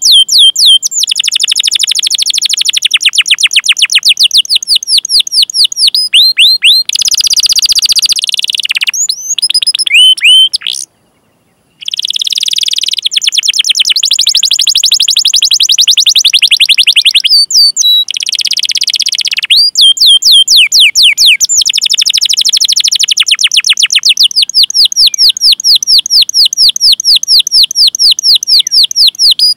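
Canary singing long rolling trills: runs of fast, rapidly repeated sweeping 'cuit cuit' notes that change phrase every few seconds, with a brief break in the song about eleven seconds in.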